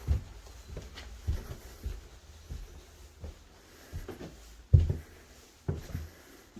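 A series of irregular soft knocks and thumps, the loudest about three-quarters of the way through.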